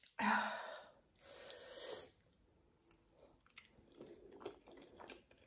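Close-miked chewing of a mouthful of food, mukbang style. Two louder noisy rushes come in the first two seconds, then quieter chewing with small wet clicks.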